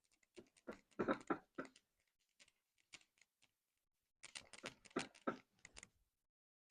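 A cloth wiping excess Carnauba wax off a wood-and-resin board in quick rubbing strokes. The strokes come in two short bouts, about a second in and again from about four seconds in.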